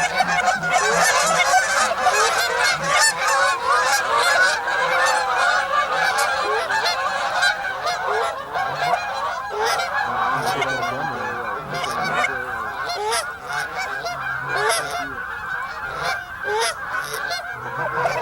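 A large flock of geese calling all at once: a dense, continuous clamour of many overlapping honks, easing a little in the second half.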